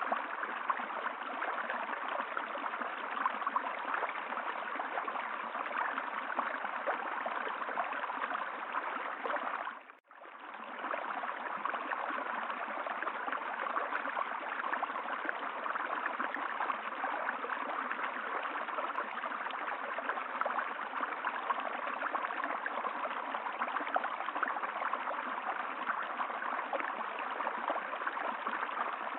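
Running water of a stream, steady and even; about ten seconds in it fades almost to nothing and swells back within about a second.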